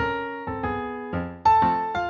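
Background piano music: single notes and chords struck at an unhurried pace, each fading before the next.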